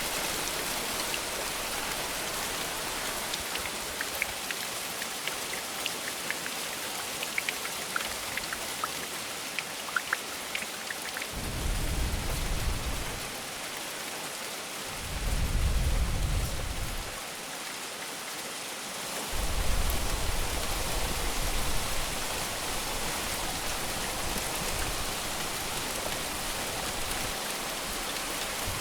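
Steady rain falling, with scattered drop ticks, and three low rumbles of thunder about halfway through.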